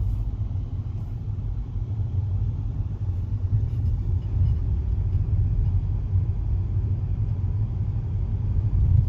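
Steady low rumble of a car rolling slowly, heard from inside the cabin.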